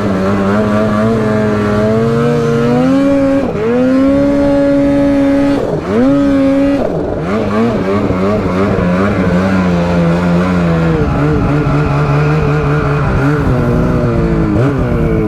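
Snowmobile's two-stroke engine at high revs while riding through deep snow, the pitch dropping sharply and climbing back several times as the throttle is let off and pinned again, then holding steadier and settling lower near the end.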